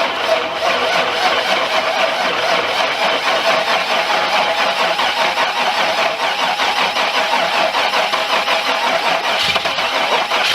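1971 Oldsmobile Cutlass engine cranking on the starter for a cold start with no choke. It is a steady, fast churning that runs unbroken and cuts off abruptly at the very end.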